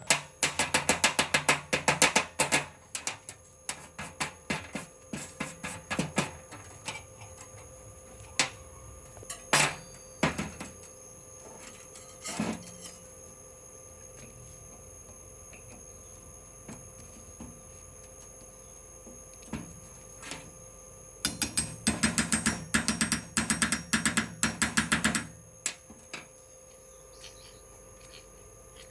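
Rapid, sharp mechanical clicking in two bursts of a few seconds each, one at the start and one about three quarters through, with scattered single clicks between.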